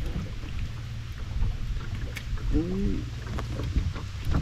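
Wind buffeting the microphone, a steady low rumble, with a few small knocks and a short gliding voice-like sound about halfway through.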